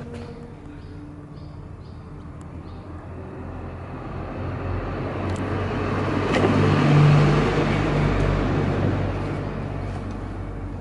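Honda CB250RS-Z's single-cylinder four-stroke engine running at a steady speed through a hand-bent, large-diameter full exhaust system. It grows steadily louder to a peak about seven seconds in, then eases off a little. It runs with no abnormal noises.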